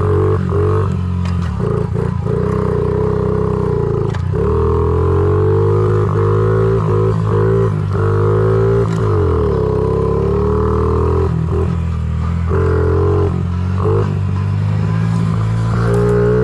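Honda CRF50 pit bike's small single-cylinder four-stroke engine running under way, its pitch dipping and rising as the throttle is eased and opened, with short knocks from the bike over bumps.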